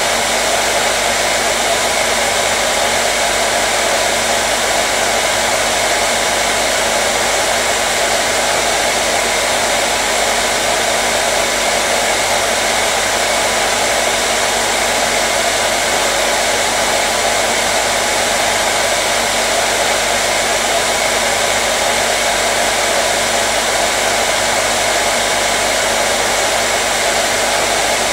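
Hair dryer running continuously at a steady setting: an even, unchanging whoosh of airflow with a faint motor hum, played as white noise.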